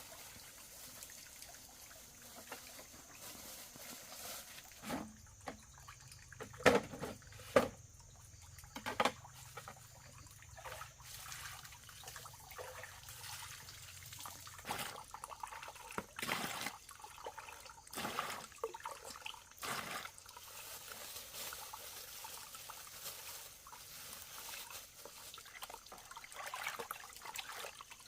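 Water trickling and pouring, with a few sharp knocks around seven to nine seconds in.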